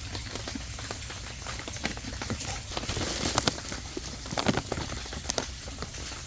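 Irregular wet pops and small splashes at a pond's surface as koi slurp floating food, over a steady patter of rain on the water. The pops come more thickly in the middle.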